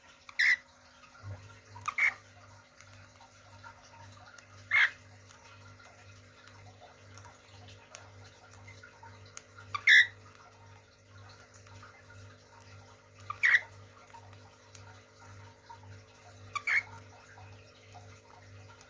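Short single calls from cage birds, six in all, spaced a few seconds apart, the loudest about ten seconds in, over a steady low hum.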